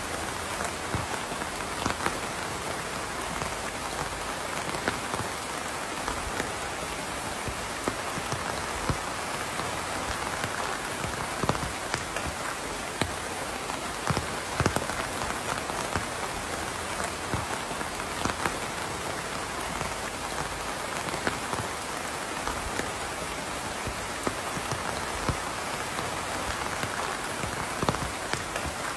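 Steady rain falling on a surface, an even hiss with many individual drops ticking and pattering sharply throughout.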